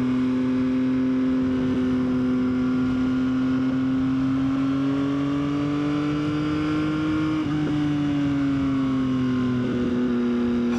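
Yamaha XSR900's three-cylinder engine running steadily on the road. Its pitch slowly climbs, dips briefly about seven and a half seconds in, then eases back down.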